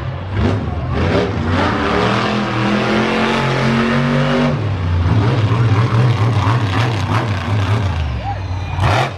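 Monster truck engine revving hard. Its pitch climbs over the first four seconds or so, then settles into a lower, heavy drone, and it drops off sharply at the very end.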